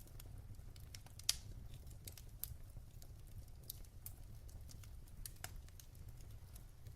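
Wood fire in a fireplace crackling: irregular sharp pops and snaps over a low steady rumble of the flames, the loudest pop about a second in.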